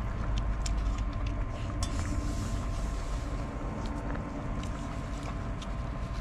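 Strong wind rumbling against the microphone, with scattered sharp crackles from a wood fire.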